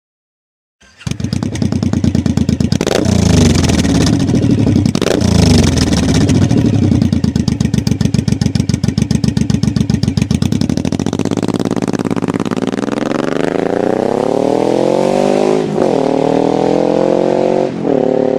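Suzuki M109R's 1783 cc V-twin through a Cobra Dragsters full exhaust system. It comes in about a second in, runs at a steady lope with two short throttle blips, then from about halfway climbs steadily in pitch, with two quick dips near the end.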